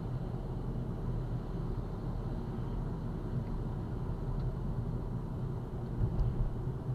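Steady road and engine rumble inside a moving car, swelling slightly about six seconds in.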